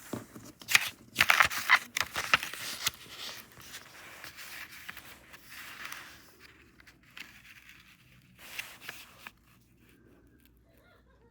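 A sheet of paper being folded and creased by hand: a burst of crisp rustling and sharp creasing strokes in the first few seconds, softer handling after, and one last short rustle near the end.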